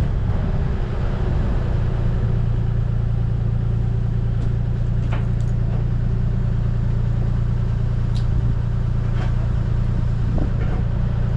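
Heavy excavation machine's engine running at a steady speed, a constant low drone, with a few light clicks or clanks over it.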